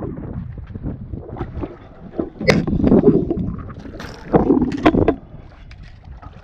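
A tarpon thrashing and splashing at the surface right against the side of a skiff, in two loud bursts about two and a half and four and a half seconds in, over a low rush of wind and water.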